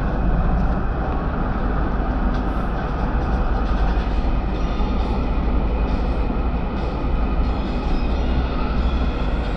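MTR South Island Line S-train electric metro train running between stations: a steady, loud rumble of wheels and running gear, with faint high tones above it.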